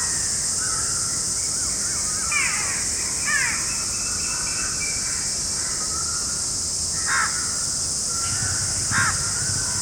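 Birds calling: harsh, arching calls about two and a half and three and a half seconds in, and two more near seven and nine seconds, with softer whistled bird notes between them. A steady high-pitched hiss, typical of insects, runs underneath.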